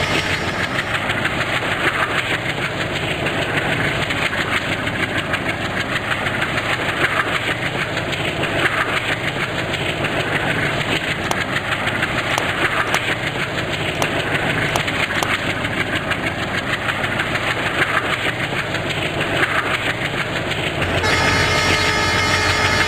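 A train running past at speed: a loud, dense rumble and rattle of wheels on the rails, with a few sharp clicks in the middle.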